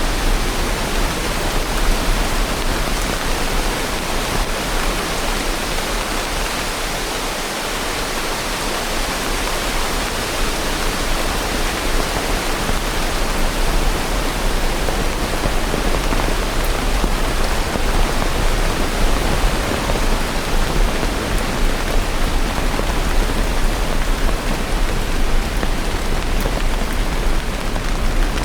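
Steady heavy rain: a dense, even hiss with a steady low rumble beneath.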